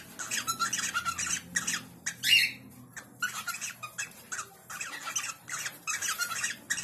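Birds squawking in a rapid series of short, harsh calls, with one louder call about two seconds in.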